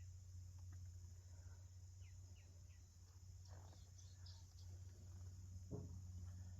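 Near silence: a faint background with a steady low hum and high hiss, and a few faint short chirps and ticks.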